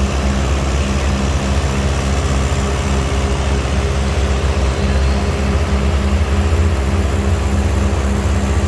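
Antique farm tractor engine running steadily at a low, even beat.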